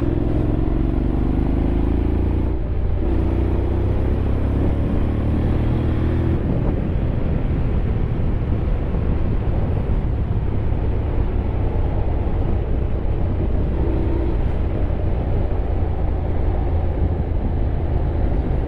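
Honda X-ADV 750 parallel-twin motorcycle under way: a steady engine drone with heavy wind and road rumble. The engine note climbs twice in the first six seconds as it pulls.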